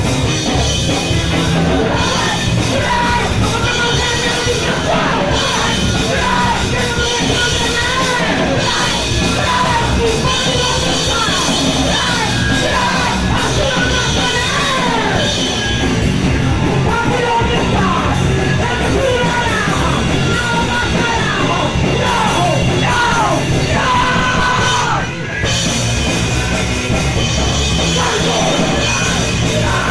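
A punk band playing a fast 90s-style hardcore song live and loud, with shouted vocals over the band. The band stops for a moment about twenty-five seconds in, then comes back in.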